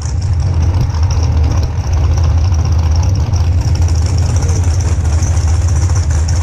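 Drag-racing car engine idling with a loud, steady low rumble.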